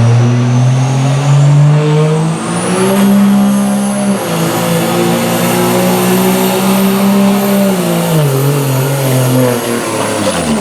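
Turbocharged diesel pickup truck at full throttle pulling a sled, with a high turbo whistle that climbs and holds over the engine. The engine pitch drops near the end as the truck bogs down or lets off.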